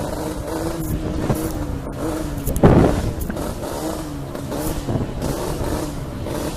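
Dirt bike engines running and revving, the pitch rising and falling, with one louder rev about two and a half seconds in.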